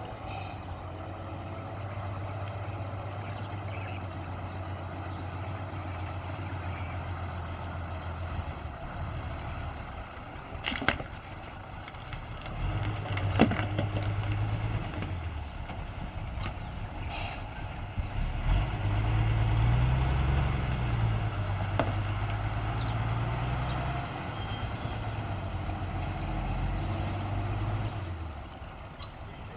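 Heavy diesel machinery engine running with a low drone, working up in pitch and level about twelve seconds in and again for several seconds past the middle. A few sharp clanks and a brief hiss stand out over it.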